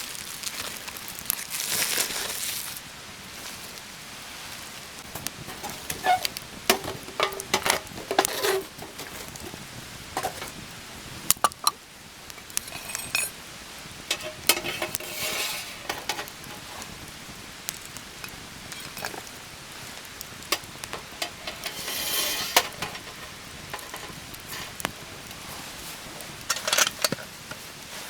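Intermittent clinks and knocks of metal cookware being handled, some ringing briefly, with a few short stretches of hiss between them.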